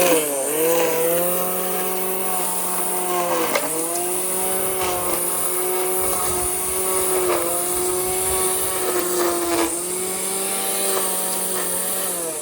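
Petrol lawn mower engine running steadily with a thin high whine above it. Its pitch dips briefly about half a second in, about three and a half seconds in, and near the ten-second mark, then settles again.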